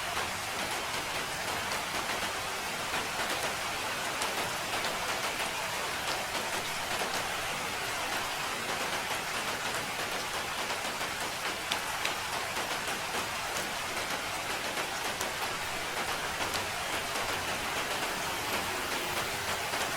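Steady rain falling and pattering on a surface, with many small drop ticks and no let-up.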